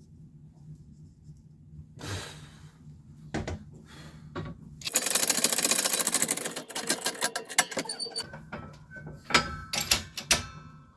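Hand tools and powder being handled while packing a firework tube: a few knocks, a dense rustling scrape about five seconds in, then a quick run of small clicks and rattles.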